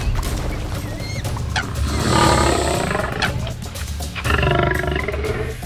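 Tiger roaring and growling, in two long calls: one about two seconds in and one past four seconds.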